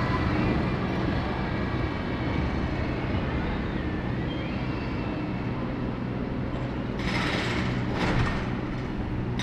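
A bus engine running steadily in street traffic, with a faint gliding whine in the middle. Two short bursts of air hiss come near the end.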